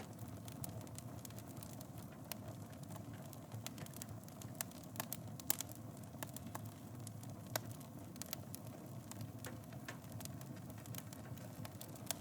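Wood fire in a fireplace burning with a steady low rumble and irregular sharp crackles and pops, the loudest about five and a half seconds in.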